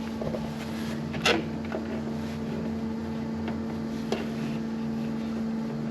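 A steady machine hum with a low, even pitch, with a sharp knock about a second in and a lighter one near four seconds, from wires and parts being handled.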